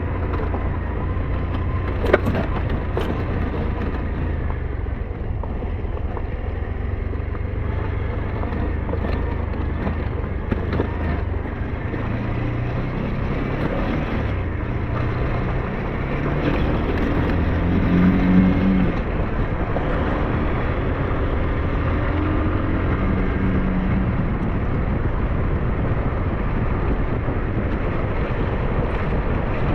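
SYM NHT 200 motorcycle riding along, its engine note rising and falling over a steady low rumble of wind and road noise, with a sharp knock about two seconds in.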